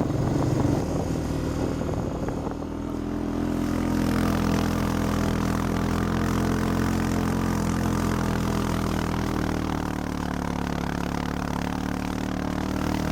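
Four-wheeler (ATV) engine running steadily under load while towing a trail-grooming drag through snow, its note picking up slightly a few seconds in.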